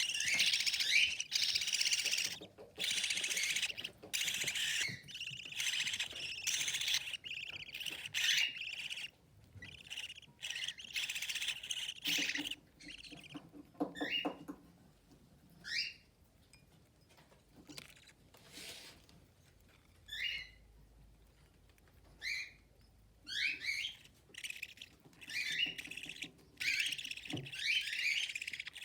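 Budgerigar chicks, about 18 to 27 days old, chirping rapidly as they beg while the hen feeds them. The chirps run in a dense stream for about the first twelve seconds, then come as short separate calls, some rising in pitch, and thicken again near the end.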